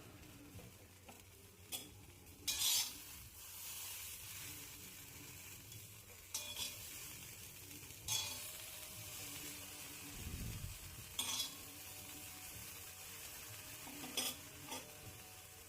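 Peas frying in hot oil in a pan, with a steady sizzle, and a spoon scraping and clinking against the pan about six times as they are stirred. A low bump comes a little past the middle.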